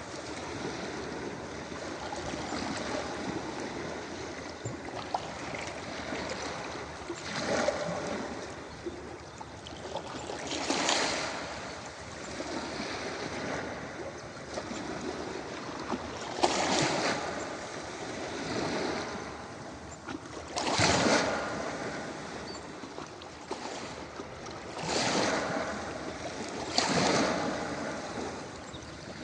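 Ocean waves breaking on a beach: a steady wash of surf, with a louder wave crashing and fading every few seconds, about six times.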